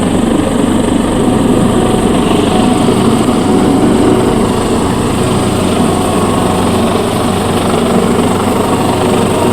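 AgustaWestland AW189 twin-turbine helicopter running, a loud steady din of rotor and engines.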